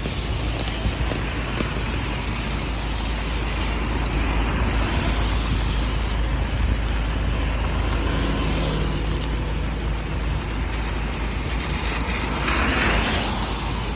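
Steady low rumble and rushing road noise of a moving vehicle on a rainy day. A faint motor hum comes in for a few seconds around the middle, and a brief louder swish follows near the end.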